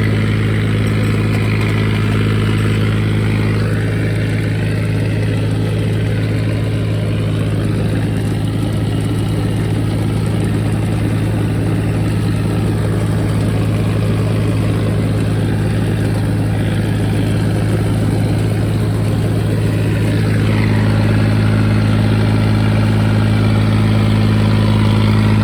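John Deere 5039 tractor's diesel engine running steadily with an even hum, growing slightly louder about twenty seconds in.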